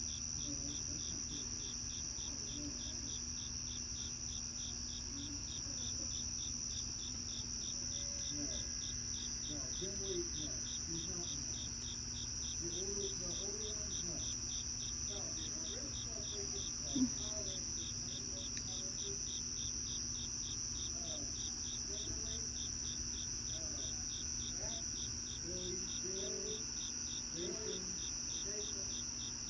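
Crickets chirping in a continuous night chorus: a steady high trill with a regularly pulsing chirp just beneath it. A single brief knock about halfway through.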